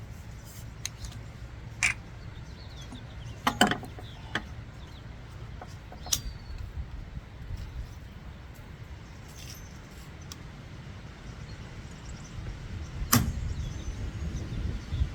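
A few sharp clicks and knocks, with the loudest about three and a half seconds in and again near the end, from handling tools and a small container while draining a fuel sample from a lawnmower. A steady low rumble runs underneath.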